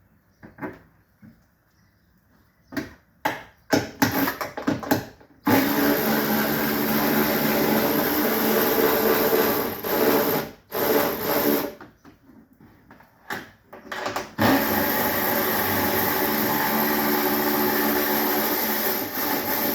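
Handheld electric power tool: several short trigger blips, then two steady runs of about five seconds each, separated by more short bursts.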